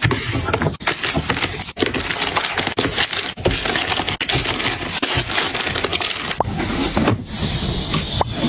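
Dense crinkling and crackling of plastic packaging being handled, with many small clicks and taps and a hissier stretch near the end.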